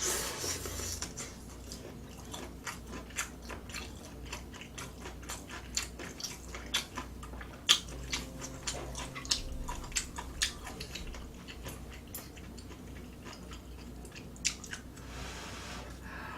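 Close-miked chewing and eating: a steady run of irregular wet mouth clicks and smacks, with a few sharper louder ones.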